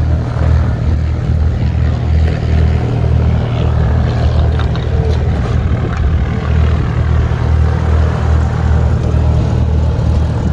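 An engine running steadily, a loud low-pitched drone with a throb that pulses about twice a second.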